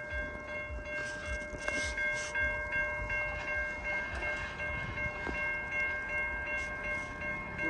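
Freight train rolling past, its wheels clacking over the rail joints in an uneven rhythm, while a railway crossing bell rings steadily.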